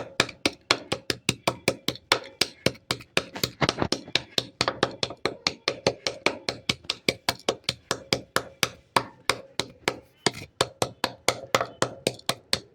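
Slate pencil being chewed, giving a fast, regular run of sharp crunches, about three to four a second, that stops near the end.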